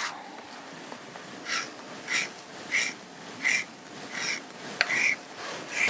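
About six evenly spaced rubbing strokes on fabric, roughly one and a half a second, with a sharp click near the end.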